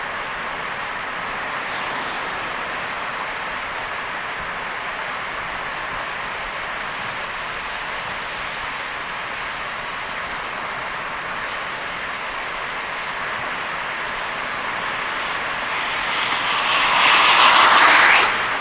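Steady hiss of heavy rain and tyres on a wet expressway from a car driving through a downpour. Over the last couple of seconds a louder rushing swell builds and then cuts off abruptly.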